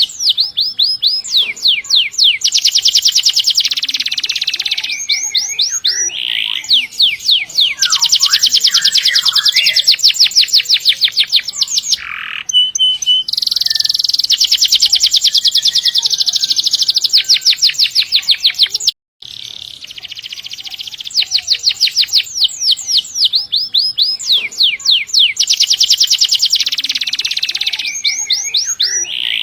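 Domestic canary singing energetically in long rolling trills: runs of very rapid repeated high notes, broken by shorter chirps and whistled phrases. The song cuts out for a split second about two-thirds of the way through.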